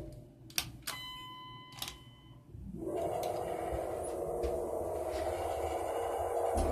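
Dover Impulse hydraulic elevator arriving at a floor: the running noise stops, a few relay-like clicks sound, then a single electronic arrival chime dings for about a second and a half. About three seconds in a steady whooshing hum starts and runs for about four seconds.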